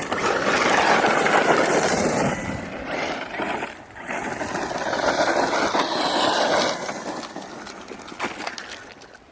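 A 1/8-scale electric RC truck driving hard over rough ground: the brushless motor's whine rises and falls with the throttle over loud tyre and gravel noise. It fades away over the last couple of seconds.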